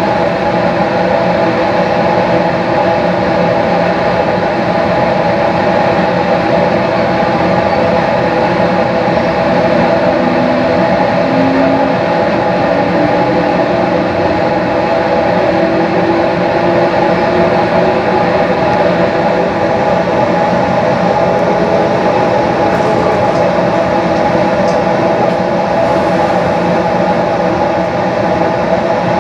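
JR East 215 series electric train running at speed, heard from inside the car: a steady, loud rumble of wheels and running gear, with a faint tone rising in pitch from about ten to sixteen seconds in.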